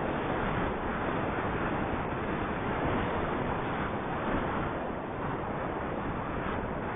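Wind rushing over the microphone of a moving bicycle, a steady even noise with no speech.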